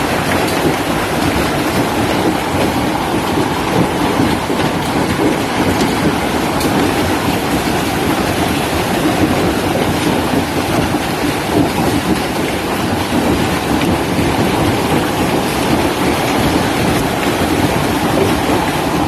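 Hailstorm: hailstones and heavy rain pelting down in a loud, dense, steady clatter.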